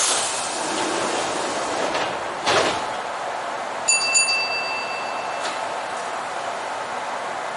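Electric train's pneumatic sliding doors at a station: a sudden hiss of air that fades over a couple of seconds, then a sharp thud with a short hiss as the doors shut. About a second later a steady electronic tone sounds for about a second and a half.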